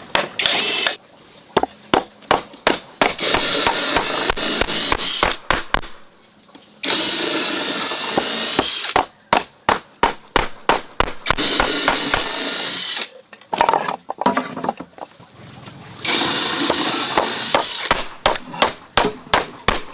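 Hammer blows on wood in quick runs of several strikes a second, alternating with stretches of a power tool running steadily.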